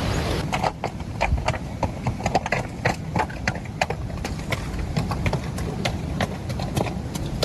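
Hooves clip-clopping irregularly on hard, stony ground, several sharp clacks a second, over a steady low rumble.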